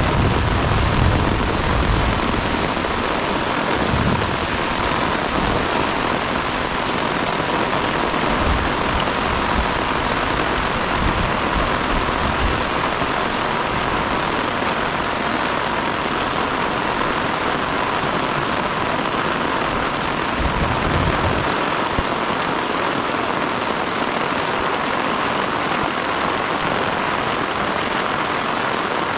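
Heavy rain falling steadily, with a low rumble of thunder fading away in the first two seconds.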